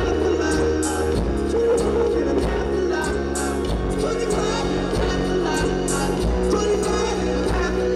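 Live pop-rock music playing, with a steady bass line under held chords and a bright splash in the highs every two to three seconds.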